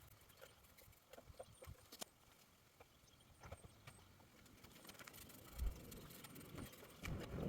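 Near-quiet background with scattered faint clicks and light knocks, and a single low thump about five and a half seconds in.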